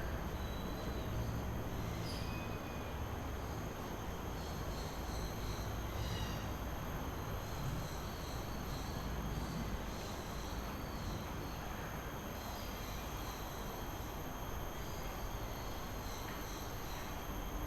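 Steady outdoor noise with a low rumble, over which small birds give short, high chirps now and then, and a constant thin high whine of insects.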